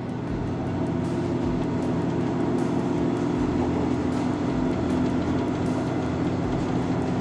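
Running noise of an Aoimori Railway train heard from inside the carriage: a steady low hum with a few held tones over an even rumble, growing louder over the first second and then holding steady.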